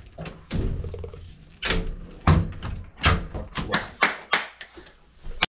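A series of about a dozen knocks and thuds, some close together, ending in a sharp knock just before the sound cuts off abruptly.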